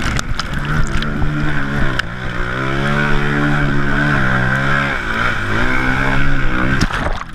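Dirt bike engine running and revving unevenly, its pitch rising and falling, then cutting off near the end.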